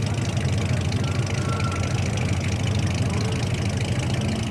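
Tuned classic Opel car engine idling steadily, with no revving.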